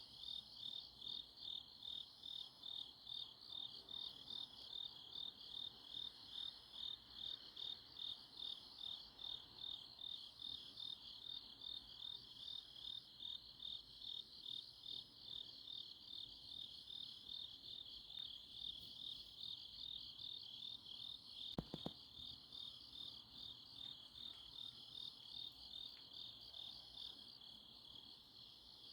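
Autumn night chorus of crickets and other grass insects: a steady high chirping pulsing about twice a second, with a fainter, higher insect call repeating every second or so. A single short click sounds about three-quarters of the way through.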